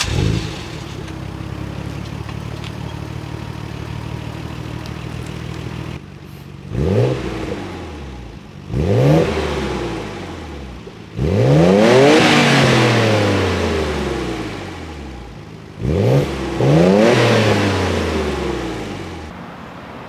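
Nissan Skyline R32 GT-R's twin-turbo RB26 straight-six on its stock exhaust, idling steadily, then revved four times: two short blips, then two longer revs held high and falling back slowly. It sounds clean and stock.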